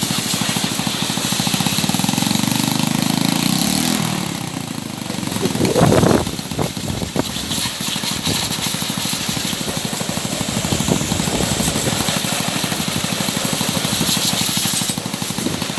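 Motorcycle engine idling roughly, with uneven, stuttering firing and a hiss of water being sprayed over it, and a brief rise in engine sound about six seconds in. The misfire under water spray is the stutter the mechanic traces to an oxidized, loose connector at the ignition coil that loses contact when wet.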